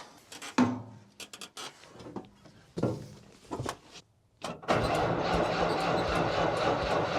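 A few knocks and clatters, then from nearly five seconds in an old Mack truck's engine is cranked over on the starter, running steadily without catching.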